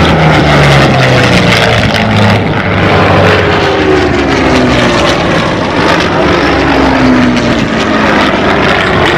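Propeller-driven piston-engined warbird flying past, its engine note falling steadily in pitch as it goes by.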